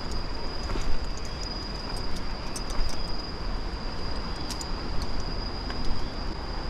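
Insects, crickets by their sound, keeping up one steady high-pitched drone over a constant low rumbling noise, with scattered faint clicks.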